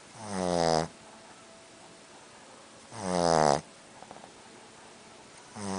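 Boston Terrier snoring in her sleep: three snores about two and a half seconds apart, each a pitched drone lasting well under a second that grows louder and then cuts off abruptly, the last one near the end.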